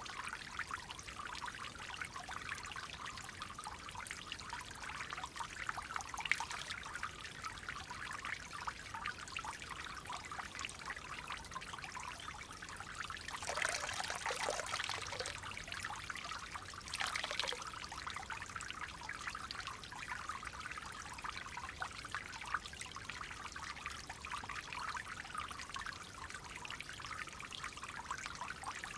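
Stream water flowing and trickling steadily, with two louder gushes about halfway through.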